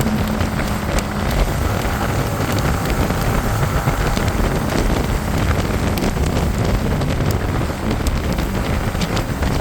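Wind noise buffeting a helmet-mounted camera's microphone on a moving motorcycle: a steady, loud rushing rumble.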